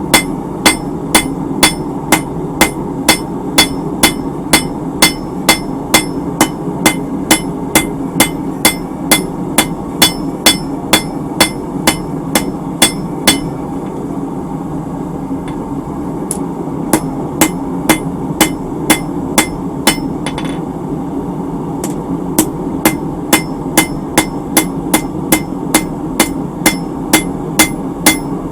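Blacksmith's hammer striking the hot end of a horseshoe on an anvil, flattening it into a pad: steady ringing blows about two a second, a pause of a few seconds midway, then the blows resume.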